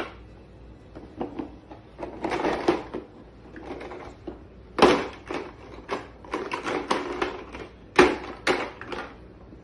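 A toy truck clattering and knocking as a toddler handles it: irregular rattles and bumps, with sharp knocks about five seconds in and twice around eight seconds.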